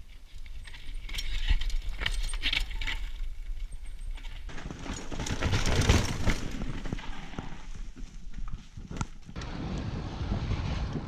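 Mountain bike rolling over a rough, rocky trail: tyres crunching on loose ground, with the bike rattling in quick clicks and knocks. It gets louder in swells about halfway through and again near the end.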